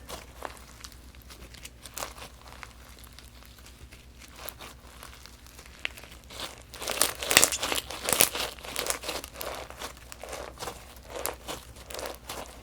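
Crunchy slime mixed with sprinkles being squeezed and worked, giving a run of small crackles and pops, densest and loudest in a burst a little past the middle.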